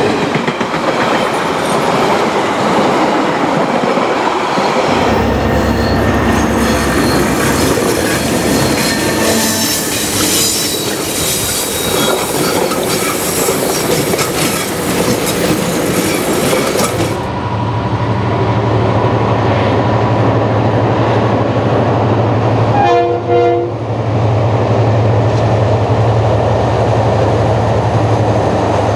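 A heritage passenger train's wooden carriages rolling past close by, with wheel noise and clatter over the rail joints. Later, DBR-class diesel locomotives run past with a steady low engine drone, and a short horn note sounds about two-thirds of the way through.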